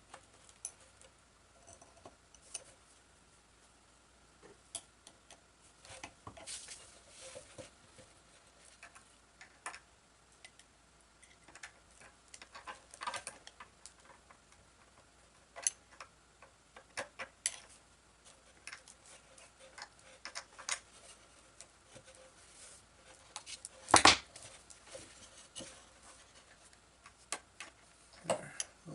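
Scattered small clicks, taps and rattles of screws and metal parts being handled while an electric motor is test-fitted to its mount, with one louder knock about 24 seconds in.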